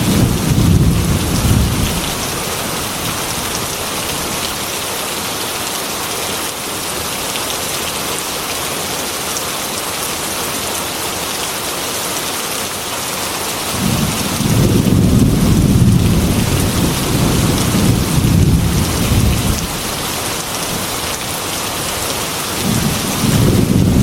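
Heavy rain falling on a glass window, a steady hiss throughout. Rolling thunder rumbles under it for the first two seconds, again for about five seconds from a little past the middle, and once more just before the end.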